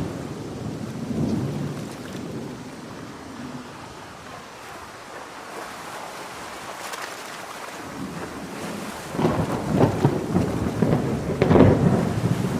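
Heavy rain falling steadily while thunder rumbles. About nine seconds in, a louder, crackling thunder peal breaks in.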